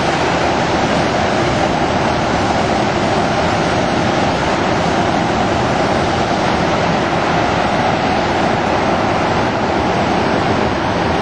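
Floodwater rushing out below a dam in a steady, loud whitewater roar.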